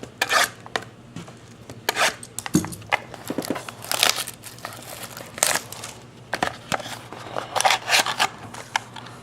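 Mini boxes of trading cards being cut open and their wrapping crinkled and pulled off by hand, a run of irregular crackles and rustles.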